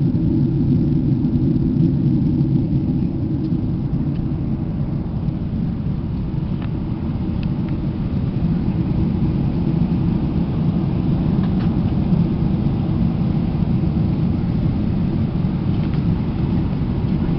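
Airliner cabin noise during the landing: a steady low rumble of engines and airflow heard from inside the cabin, with a few faint ticks.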